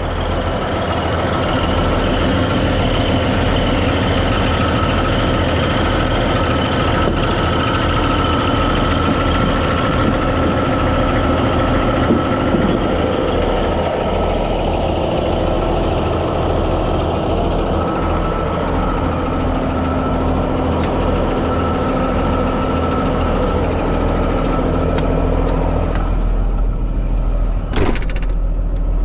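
Heavy truck engine idling steadily, with a sharp knock near the end.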